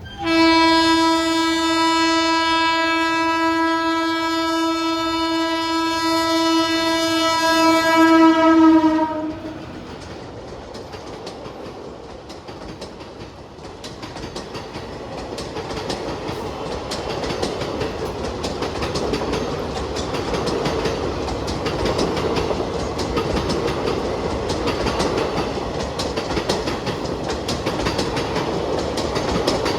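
Train horn sounding one long steady blast of about nine seconds, ending with a slight drop in pitch. Then the train's running rumble and wheel clatter on the rails grows louder over several seconds and stays loud.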